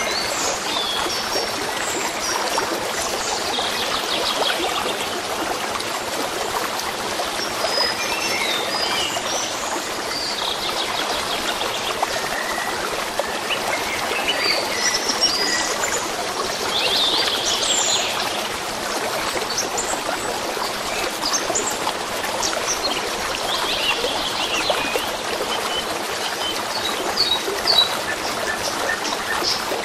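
A stream trickling and babbling steadily, with several small birds chirping and trilling over it throughout.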